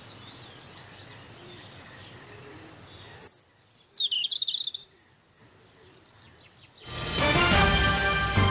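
Birds chirping over a faint hiss, with a louder run of quick rising chirps about four seconds in. Music comes in about seven seconds in and runs to the end.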